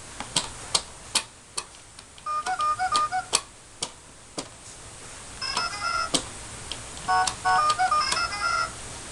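Electronic beeping tunes from a child's toy truck, three short runs of notes, over sharp clicks about every half second that fit buttons or switches being pressed.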